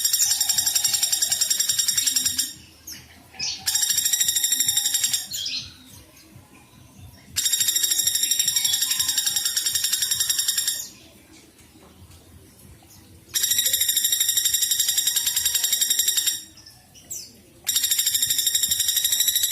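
Woodpecker calling in long, rapid trills: five bursts of fast-repeated high notes, each lasting a few seconds, separated by short pauses.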